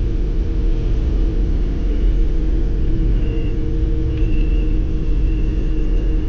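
Wind rumbling on the microphone during a ride, with a steady high whine that comes in about three seconds in.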